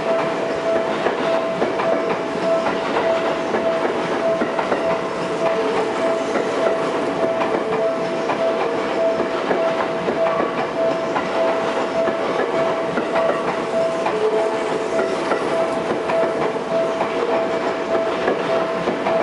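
Seibu Railway 9000 series train running steadily on the rails, its wheels clattering over the track joints, with a steady whine under the clatter.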